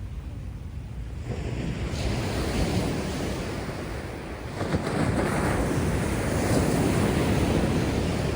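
Heavy storm surf breaking on a beach: one wave crashes about a second in and a bigger one near the middle, its wash running on loudly until near the end. A low wind rumble on the microphone runs under it.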